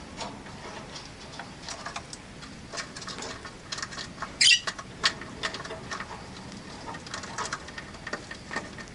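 Rosy-faced lovebirds in a cage making a scatter of short chirps and clicks, with one loud, shrill call about four and a half seconds in.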